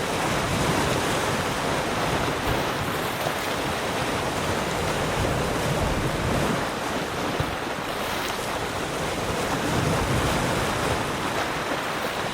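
Ocean surf: a steady rush of waves washing in, rising and easing slightly in level.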